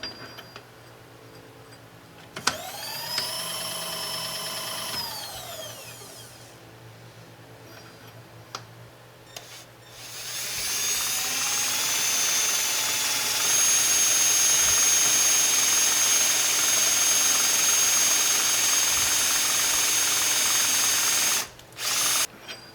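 Electric power tool shortening a metal part: its motor spins up, runs for a few seconds and winds down, then runs again for about ten seconds under load with a steady high whine.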